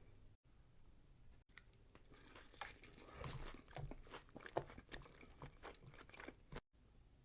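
Close-miked mukbang eating sounds: chewing with irregular wet clicks and crunches. They start about a second and a half in, are loudest a little past the middle, and stop abruptly near the end.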